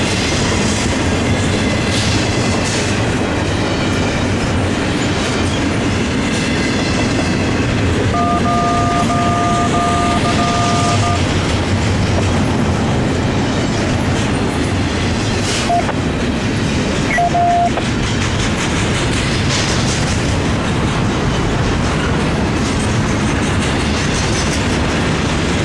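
BNSF intermodal container train of empty cars rolling by with a steady rumble and rattle of wheels on rail. A brief two-note steady tone sounds about eight seconds in, and short single notes follow a little later.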